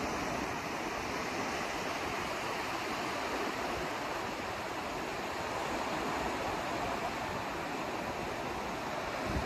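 Steady white noise: an even rushing hiss with no rhythm, tones or breaks.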